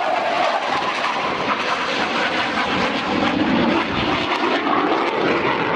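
CF-18 Hornet fighter jet's twin turbofan engines making a loud, steady rushing noise as it flies its display, the pitch sitting lower about halfway through.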